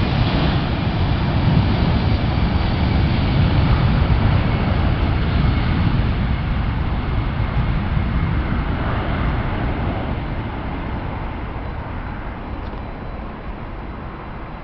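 Airbus A320 jet engines at take-off power: a loud, deep rumble that fades steadily through the second half as the airliner climbs away.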